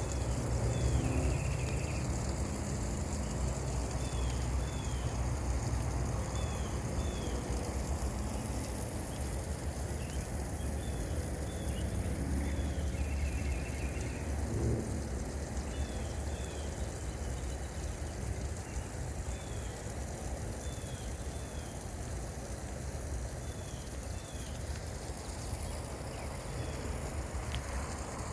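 A small bird singing short, high, hooked notes in pairs every couple of seconds, with an occasional brief trill, over a steady low rumble.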